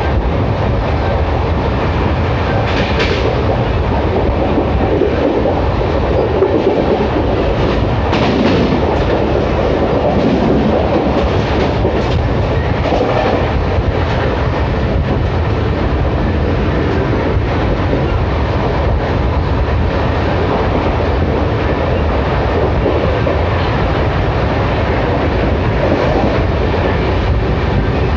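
Ernakulam Duronto Express passenger train in motion: a steady, loud rumble of the coach running along the track, with wheels clicking over the rails now and then.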